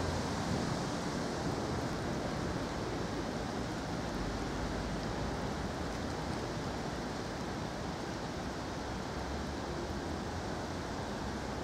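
Thunderstorm downpour: steady hiss of heavy rain with wind.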